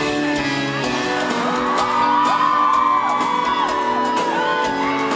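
Live sertanejo band music in a large hall, with the audience screaming and whooping over it, loudest in the middle.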